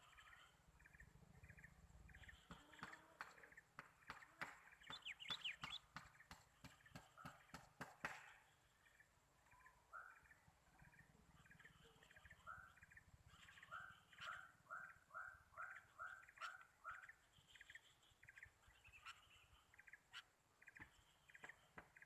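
Small birds chirping in short, repeated notes, including a run of about eight evenly spaced calls, some three a second, in the middle. Scattered sharp clicks fall in the first third.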